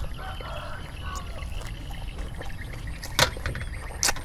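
Close-up wet chewing of a mouthful of crispy rice pancake (banh xeo) with leafy greens. Two sharp clicks come about three seconds in and again near the end.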